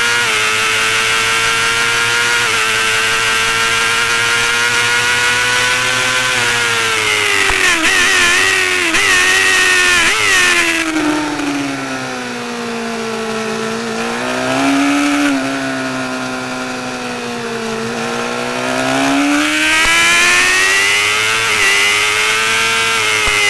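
Honda CBR600RR's inline-four engine heard on board at high revs. It holds steady, then drops in pitch in several quick steps as the bike brakes and shifts down, runs at lower revs through the corner, and climbs back up as it accelerates out.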